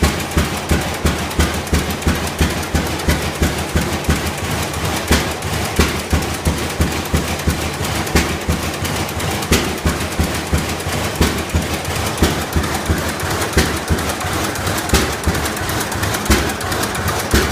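Rumely OilPull tractor engine running at slow speed, its exhaust firing in a steady beat of sharp pops, about two to three a second.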